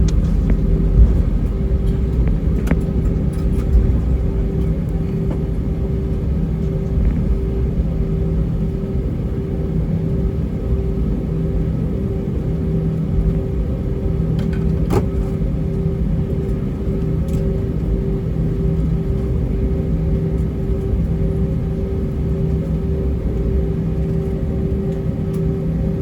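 Airbus A320 cabin noise during taxi: a steady low rumble from the IAE V2500 engines at idle and the aircraft rolling over the taxiway, with an evenly pulsing hum running through it. A single faint click about halfway through.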